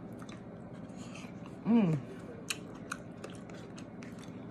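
Close-up chewing of a mouthful of vegetables, with scattered wet mouth clicks and sharp ticks. About two seconds in, a short voiced sound rises then falls in pitch, the loudest moment.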